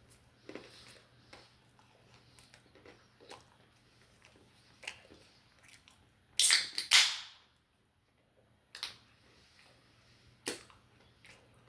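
Close-miked eating sounds from chicken wings and pizza: scattered soft clicks and crackles, with a loud sharp crackling burst about six and a half seconds in.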